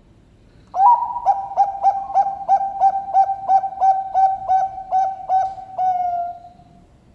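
Zebra dove of the Bangkok perkutut contest line singing one full coo phrase: a higher opening note, then a quick, even run of about a dozen low coos at roughly three a second, closing on one drawn-out note that fades.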